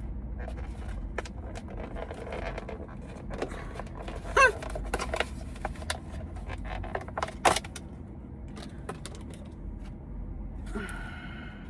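Handling of a takeout salad bowl and its lid: scattered clicks, knocks and rustles, a short squeak about four and a half seconds in and a sharp knock about seven and a half seconds in, over a steady low rumble.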